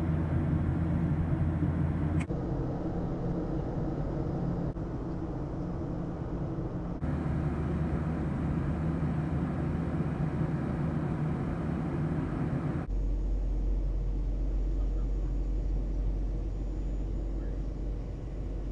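Steady rumble of a jet airliner's engines and cabin noise in flight. The sound changes abruptly several times, about 2, 5, 7 and 13 seconds in, as short clips are cut together.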